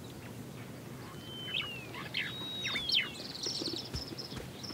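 Birds calling: sharp chirps and two drawn-out whistles that slide downward in pitch, starting about a second in, then a fast high trill in the second half, over a low steady outdoor background.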